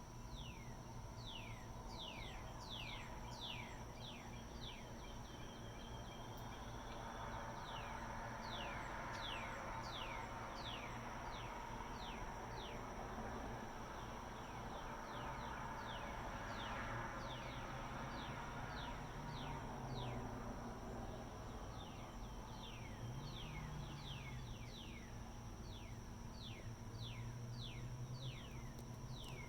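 Dusk outdoor ambience: many birds giving short downward-sliding chirps, several a second. Behind them runs a steady high insect drone, and a low hum of distant machinery that swells and shifts in pitch a few times.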